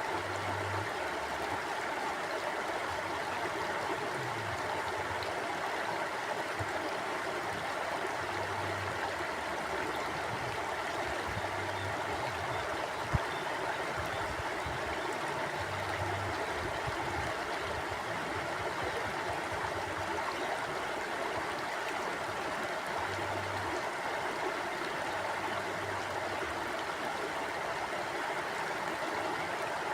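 Mountain stream flowing steadily over rocks, an even rushing and gurgling of water. A single sharp click cuts through about halfway through.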